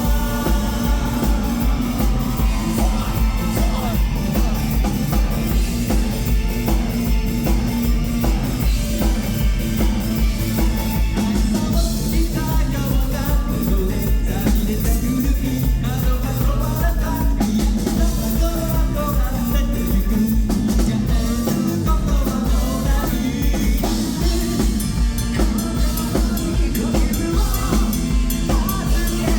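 Live rock band playing loudly, with a lead singer over a drum kit keeping a steady beat.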